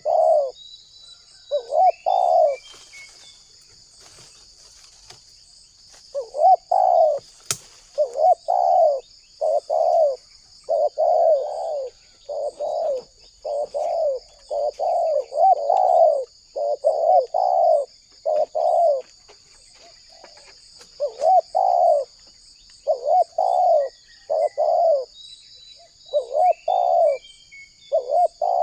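Spotted dove (tekukur) cooing: a string of short coo phrases that breaks off for a few seconds early on and again near the end. A steady high insect buzz runs underneath, with a few faint small-bird chirps and one sharp click.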